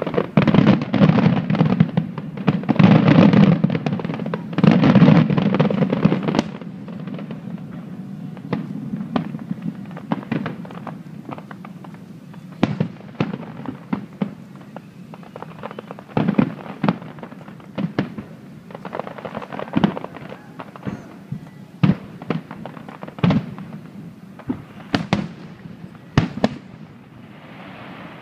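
Aerial fireworks shells bursting overhead: a dense, loud run of bangs and crackle for about the first six seconds, then single sharp bangs about a second apart.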